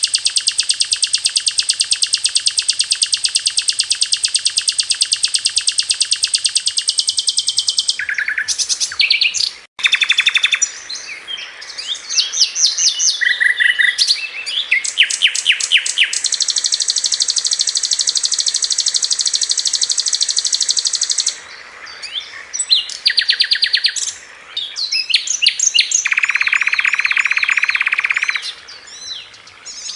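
Sikatan londo flycatcher song, recorded as a masteran for training caged birds. It opens with a very fast, even, high rapid-fire trill for about seven seconds. Then come varied quick chattering phrases and buzzy trills, with a lower-pitched trill a few seconds before the end.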